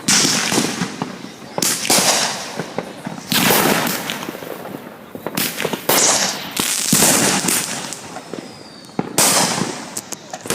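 Fireworks exploding close by: about six loud bangs, one every second or two, each fading out over a second or so.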